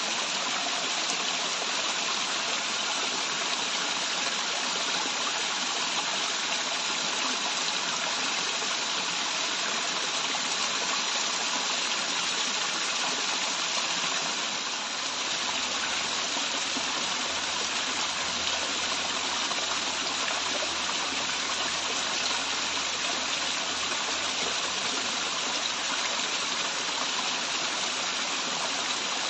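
Waterfall: water pouring and rushing in a steady, even hiss that stays unchanged throughout.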